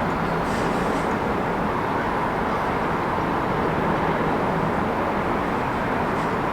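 Steady city traffic noise, a constant rumble and hiss of vehicles passing, with faint brief high sounds near the start and near the end.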